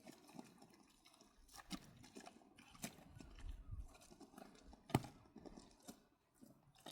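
Irregular knocks and taps, with a low rumble in the middle and one sharp knock about five seconds in.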